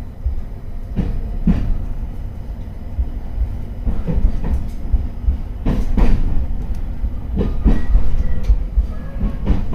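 Running noise of an electric commuter train, heard from on board: a steady low rumble with sharp clacks, often in pairs, as the wheels cross rail joints.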